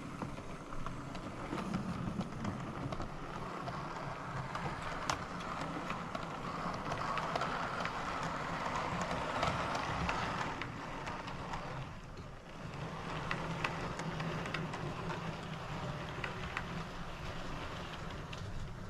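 Model railway locomotive, a 56XX tank engine hauling a rake of Mark I coaches, running along the track: a steady motor whir and rolling wheel noise with a low hum, and scattered clicks from the wheels over the rail joints.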